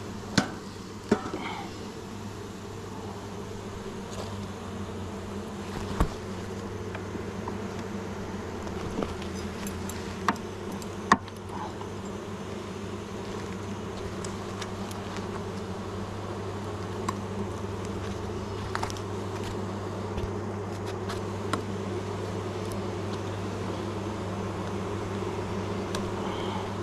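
Honeybees buzzing over an open beehive, a steady hum, with a few sharp knocks from the hive being worked, the loudest about eleven seconds in.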